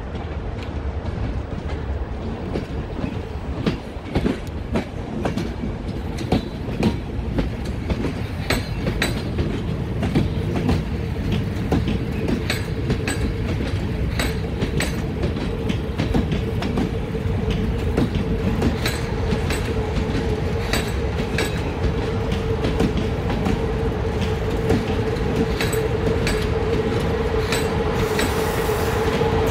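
Passenger coaches rolling past on a shunting move, propelled by an electric locomotive: a continuous low rumble of wheels with irregular clicks over rail joints and points. A steady tone runs underneath and grows louder near the end as the locomotive draws near.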